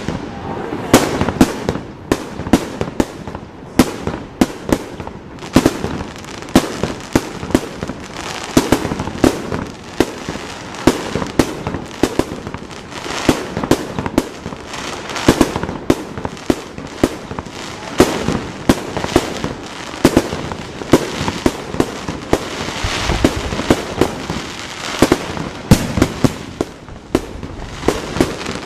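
Fireworks display: a rapid, unbroken run of aerial shell bursts, several sharp bangs a second, close together throughout.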